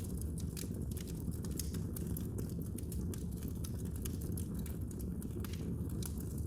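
Wood fire burning in a fireplace, crackling with frequent small, irregular pops over a steady low rumble of the flames.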